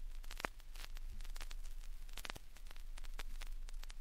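Vinyl record surface noise with no programme sound: steady hiss and a low hum, broken by scattered crackles and clicks a few times a second.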